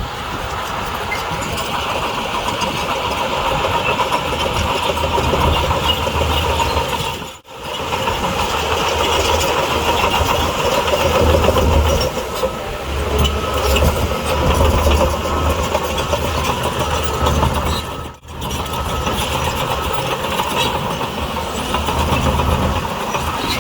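Heavy diesel earthmoving machinery running under load, the engine rumble rising and falling, with two very brief breaks in the sound about a third and three quarters of the way through.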